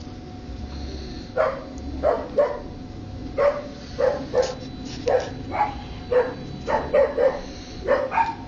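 Pet parrot giving a string of about a dozen short, loud calls, some in quick pairs, starting about a second and a half in.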